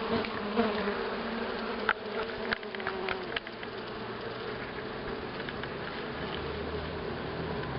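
Honeybee colony buzzing at the hive, a dense continuous hum, with a few light clicks two to three seconds in; about halfway through the buzz settles lower in pitch.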